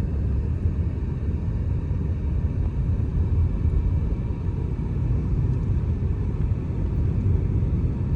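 Steady low rumble of a car driving on a mountain road, heard from inside the cabin: engine and tyre noise with no changes or sudden sounds.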